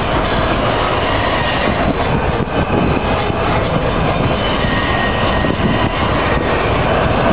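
BNSF double-stack container train rolling past: a loud, steady rumble of wheels and cars on the rails.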